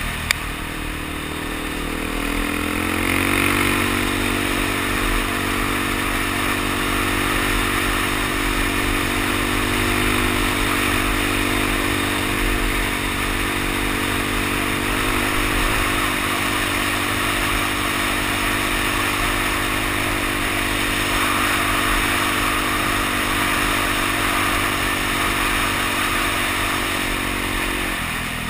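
Suzuki DR-Z dual-sport motorcycle's single-cylinder four-stroke engine pulling along at cruising speed, with a steady hiss of wind and tyres on gravel. Engine speed rises over the first few seconds, holds steady, then drops near the end as the rider eases off.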